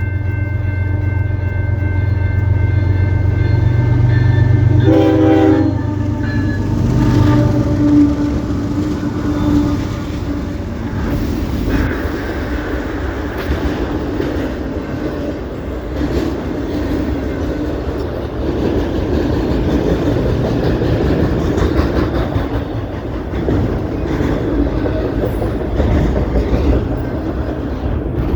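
CP Rail locomotive air horn sounding a long chord that stutters briefly about five seconds in, followed by a shorter single low note. The train then rolls past with steady rumbling and wheels clacking over the rail joints.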